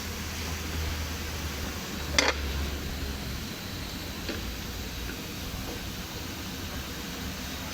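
Steady low hum and hiss, with one sharp knock about two seconds in and a fainter tap a couple of seconds later.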